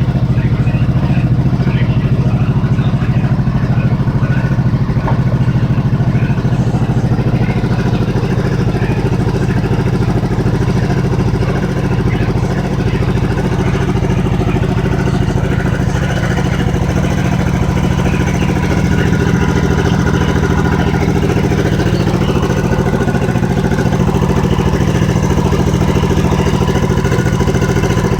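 Freshly rebuilt single-cylinder motorcycle engine, with a new crankshaft, cylinder, piston and rings, idling steadily on a test run.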